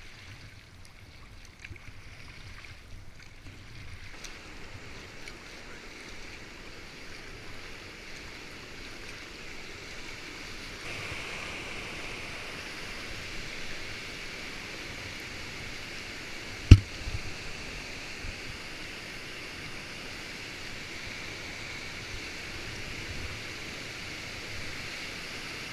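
Steady rush of water pouring over a river weir, growing louder about eleven seconds in. A single sharp knock sounds about two-thirds of the way through.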